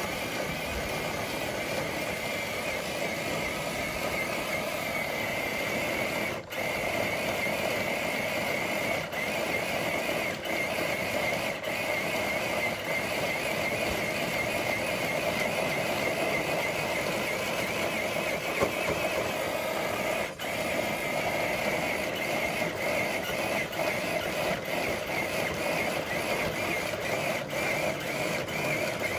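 Electric motor and geartrain of a radio-controlled scale crawler truck whining steadily under load as it drags a dead-weight pulling sled. The whine drops out briefly twice, once after about six seconds and again after about twenty.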